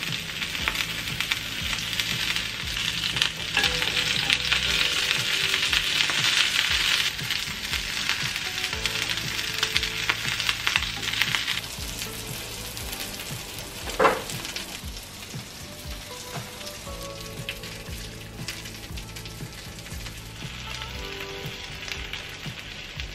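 Egg-battered meat patties and jeon sizzling in oil in a cast-iron pancake pan, with a dense fine crackle. The crackle is loudest for the first eleven seconds or so, then settles to a quieter sizzle. A single sharp knock comes about fourteen seconds in.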